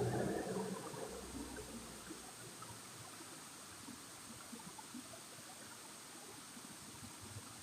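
Flowing water, a faint steady rush. A louder low sound at the start dies away within the first two seconds.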